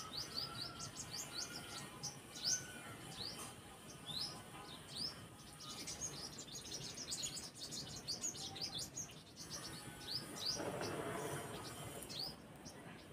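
Small birds chirping: many quick rising chirps, repeated throughout, with a few short whistled notes in the first few seconds. A soft rushing noise swells about ten seconds in and fades two seconds later.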